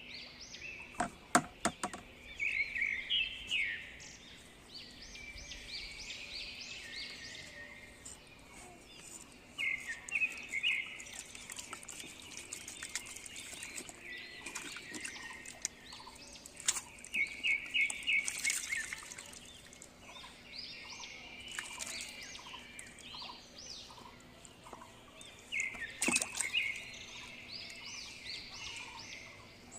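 Birds chirping in repeated bursts of quick, high notes, with a few sharp clicks.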